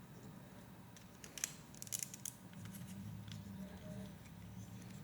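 Small plastic Lego Technic pieces clicking and rattling faintly as they are handled, with a quick cluster of sharp clicks around the middle.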